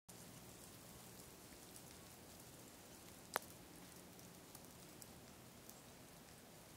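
Faint freezing rain: a light patter of tiny ticks over a soft hiss, with one sharper click about halfway through.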